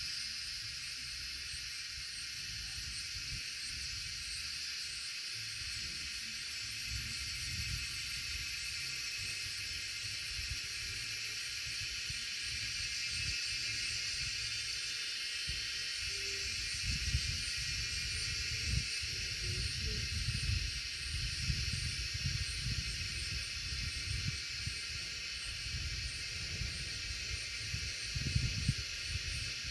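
Wind buffeting the microphone in low, rumbling gusts that grow stronger about halfway through, over a steady high-pitched hiss.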